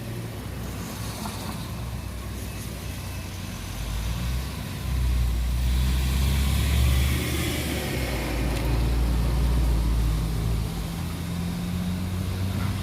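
A motor vehicle's engine running nearby, a low rumble that gets louder about five seconds in and eases off near the end.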